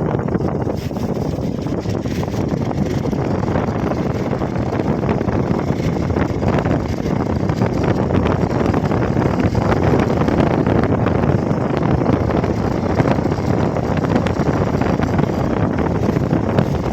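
Wind buffeting the microphone while a motorcycle is ridden, with the engine of a Hero XPulse single-cylinder motorcycle running underneath, steady throughout.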